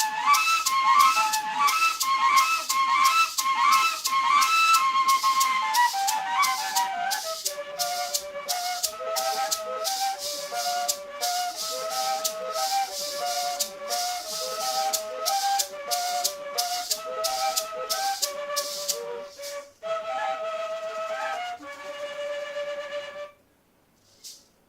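Colombian gaita music: a cane gaita flute plays a quick stepping melody over steady maraca shakes, stopping abruptly shortly before the end.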